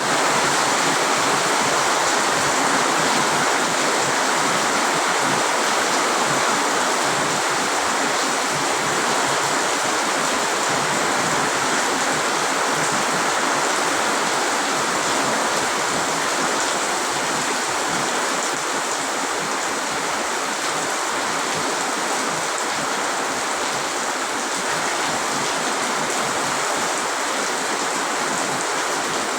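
Heavy typhoon rain pouring down steadily: a dense, even rushing hiss that never lets up.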